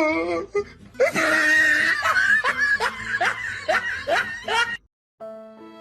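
A person laughing in a quick run of short, falling-pitched bursts. It cuts off suddenly near the end, and soft violin music begins.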